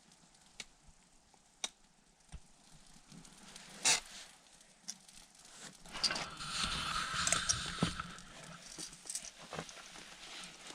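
Scattered sharp snaps and clicks of campfire kindling being handled and broken, then a louder spell of rustling and crackling about six seconds in.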